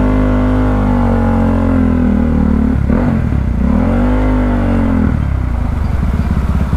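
KTM motorcycle engine running under the rider. Its pitch eases slowly down, then rises and falls once over about two seconds, and drops to a low, pulsing rumble for the last couple of seconds.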